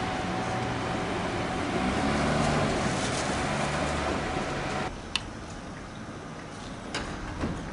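A vehicle engine running under a steady rush of road or wind noise, which cuts off abruptly about five seconds in; after that a few sharp clicks or knocks.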